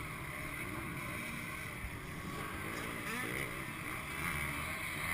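Steady drone of distant dirt-bike engines running around a motocross track, with a few faint voices.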